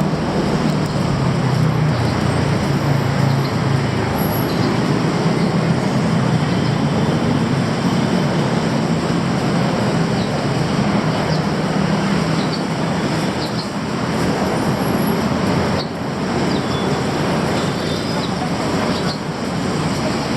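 Steady, loud vehicle rumble with a low droning hum, dipping briefly a few times near the end.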